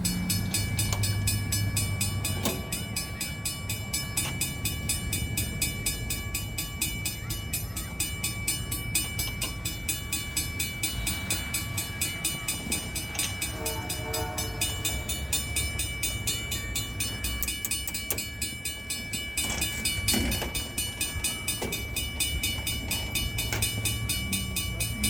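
Train rolling past, its wheels clicking in a fast, even rhythm over the rails, with a low steady rumble underneath and a short tone about halfway through.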